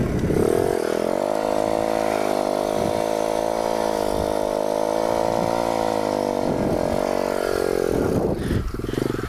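Pit bike engine revving up quickly, held at high revs with a slight waver for about six seconds, then dropping back off and running choppily near the end.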